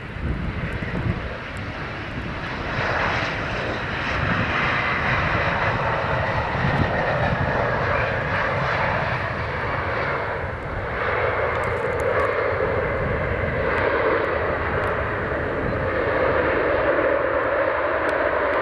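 Embraer 195 jet airliner's GE CF34 turbofan engines running as it comes in to land, a steady jet noise with a high whine, the lower engine tone growing louder in the last few seconds.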